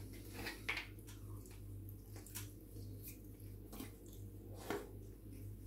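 Faint chewing and wet mouth sounds of a man eating leftover pizza, with scattered small clicks and smacks over a steady low hum.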